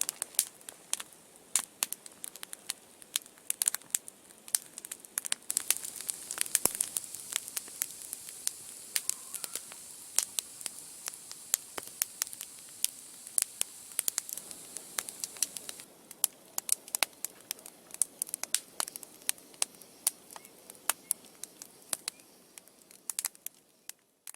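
Wood campfire burning, crackling with many sharp irregular pops. A steady high hiss joins in for several seconds in the middle.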